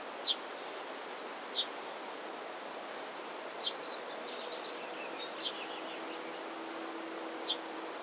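Wild birds calling outdoors: short, high chirps about every one and a half to two seconds, with a faint twitter in the middle, over a steady hiss of wind noise.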